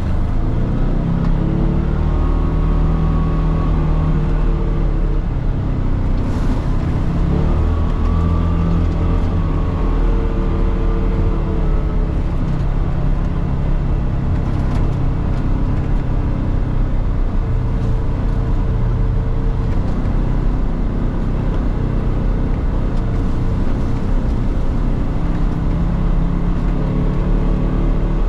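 Polaris Xpedition side-by-side's engine running steadily under way, its pitch rising and falling a little with the throttle.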